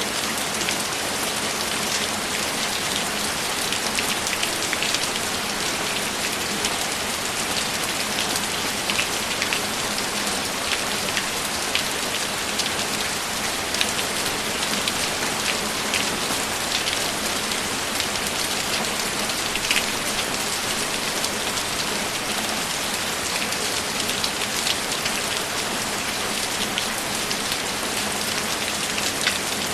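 Steady rainfall with a dense patter of individual raindrops hitting a surface.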